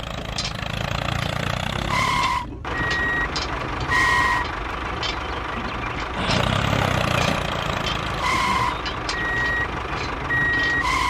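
A truck-like engine running steadily while a reversing alarm gives short beeps at irregular intervals, about seven in all. The sound cuts out briefly about two and a half seconds in.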